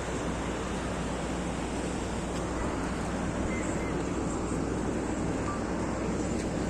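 Steady droning rumble of running engines with a low hum, getting slightly louder near the end.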